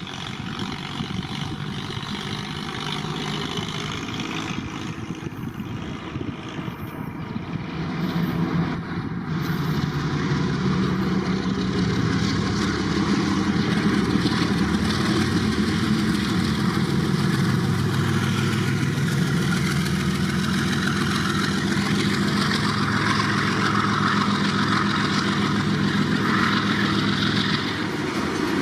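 A train's engine running with a steady low hum that grows louder about ten seconds in and then holds, as the train draws near.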